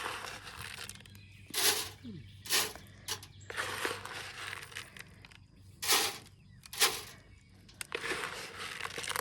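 Bird seed being scattered by hand into a chicken buffet box over grass: a string of short rustling showers, about six, as the seed lands.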